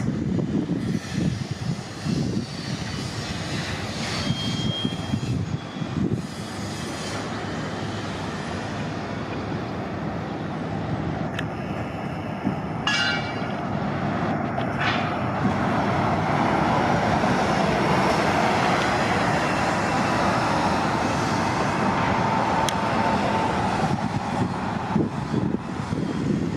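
City transit buses running and moving at a busy bus terminal, a steady engine din. A brief high squeal comes about halfway through, and later an engine whine rises and holds for several seconds as a bus pulls away.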